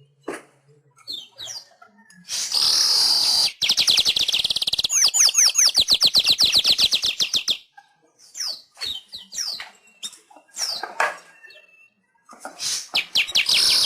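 Manyar weaver bird singing: a wheezy, buzzy burst runs into a fast rattle of rising clicking notes that lasts a few seconds. A pause follows, then scattered short falling chirps, and another buzzy rattle starts near the end.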